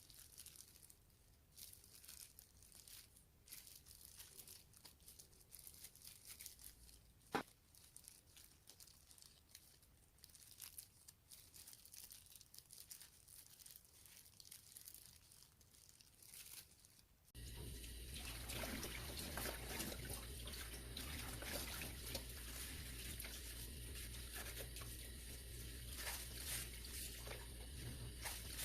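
Faint rustling and crinkling with scattered light clicks and one sharp click about a quarter of the way in. About two-thirds of the way through, water suddenly starts running steadily, with a low hum under it.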